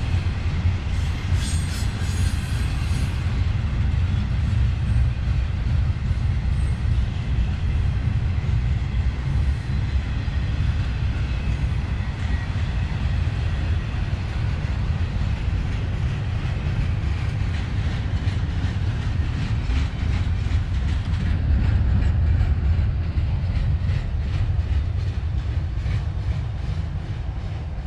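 Freight train cars rolling past at steady speed: a continuous low rumble with the clickety-clack of wheels over the rail joints.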